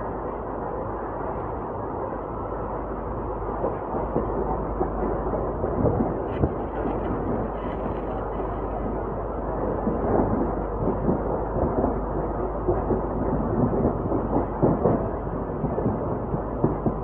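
Passenger train running, a steady rumble with irregular knocks and clatter from the wheels on the track.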